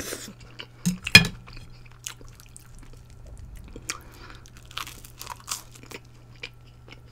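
Close-up crunching and chewing of fried toast: short crackly bites and chews, with one sharp click about a second in.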